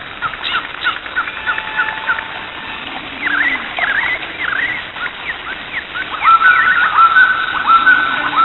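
Birds chirping and calling: many short, quick sliding chirps. From about two-thirds of the way in come louder, repeated held whistled notes.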